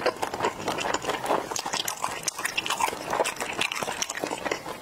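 Close-miked chewing of Korean rice sausage (sundae): wet mouth sounds made of many small, irregular clicks and smacks.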